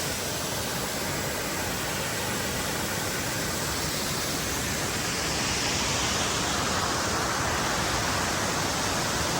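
Waterfall rushing: a steady wash of falling water that grows a little louder about halfway through.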